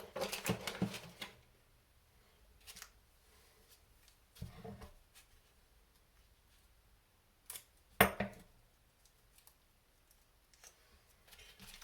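Small metal kit parts and tools handled on a workbench: a cluster of clicks and rattles in the first second or so, a few scattered clicks, and one sharp, louder click about eight seconds in.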